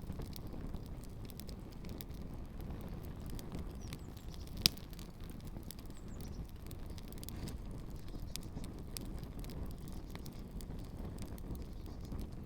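Campfire burning with shoes in it: a steady low rumble with scattered crackles and small pops, and one sharp pop about five seconds in.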